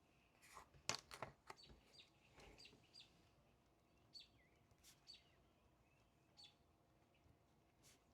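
Faint, short high bird chirps, each with a quick falling tail, repeating every second or so. A quick cluster of sharp clicks about a second in is the loudest sound.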